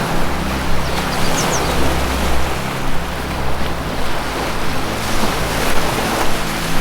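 Ocean waves washing in a steady surf, over low sustained music tones, with two brief high bird chirps about a second and a half in.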